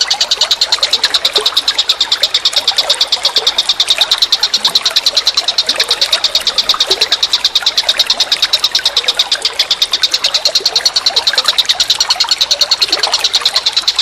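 A calling animal's high-pitched trill, pulsing fast and evenly without a break, with faint scattered chirps lower down.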